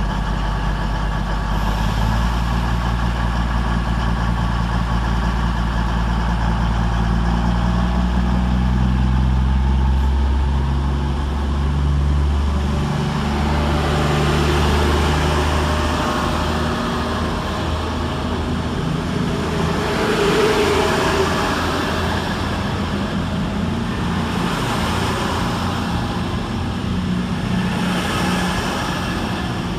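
Class 221 Super Voyager diesel-electric train departing under power, its underfloor Cummins diesel engines running with a deep, steady note that shifts in pitch about ten seconds in. After that comes a rushing noise of the train rolling past, rising and falling several times as the cars go by.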